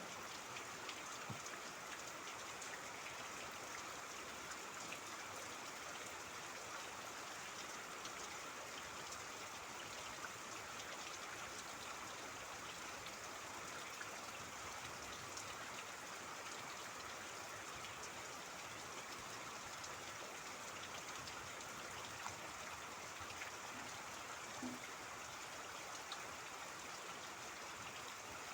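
Steady rain falling with trickling water, scattered drops ticking through an even hiss.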